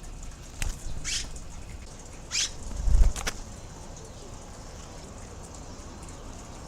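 Swallows' wings flapping at the nest in a few short flurries, with a heavy bump about three seconds in and a sharp click just after.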